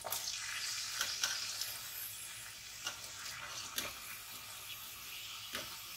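Sliced onions and potato pieces hitting hot oil in a karahi and frying: a sizzle that starts suddenly as they go in, strongest for the first couple of seconds, then settling to a steady sizzle, with a few sharp clicks along the way.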